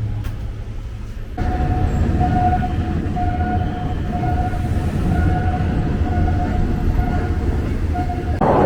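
Train running on the rails: a steady rumble with a whining tone that breaks on and off about every half second. It sets in suddenly about a second and a half in, replacing a lower, steadier hum.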